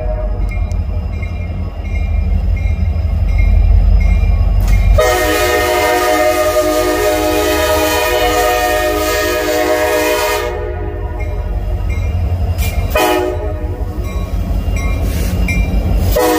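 Diesel freight locomotive sounding its multi-chime air horn over the low rumble of its engine. There is one long blast of about five seconds starting about five seconds in, a short blast a few seconds later, and another blast starting right at the end.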